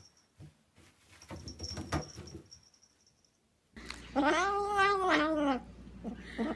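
A cat letting out one long drawn-out yowl, about a second and a half, rising and then falling in pitch with a wavering edge, a little past halfway through, after a few faint rustles.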